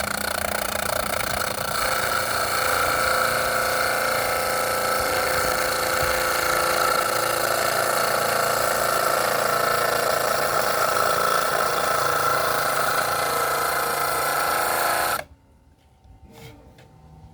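An electric power tool running steadily at full speed for about fifteen seconds, then switched off abruptly.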